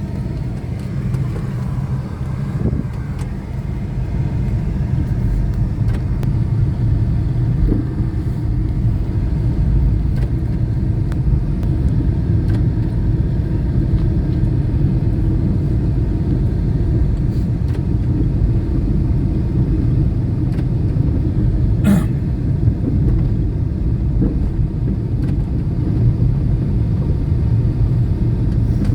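Steady low rumble of a car on the move, with a single sharp click about 22 seconds in.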